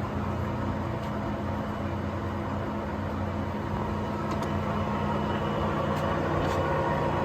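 Kingston gap-bed engine lathe running under power: a steady machine hum with a few faint ticks, growing slightly louder toward the end.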